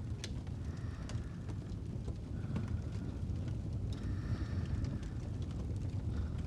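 Fireplace ambience: a steady low rumble of a burning fire with a few sharp crackling pops scattered through it.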